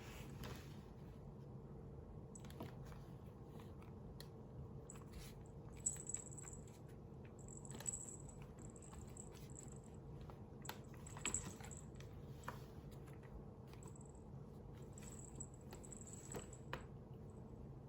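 Scattered soft clicks and taps of a kitten playing at a computer keyboard, a few sharper clicks among them, over a steady low hum.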